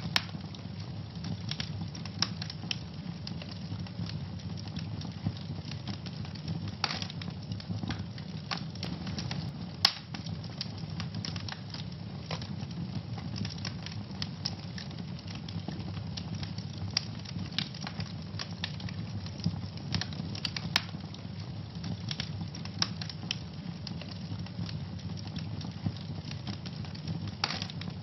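Wood fire crackling in a fireplace: a steady low rumble of burning with frequent irregular pops and snaps, one sharper pop about ten seconds in.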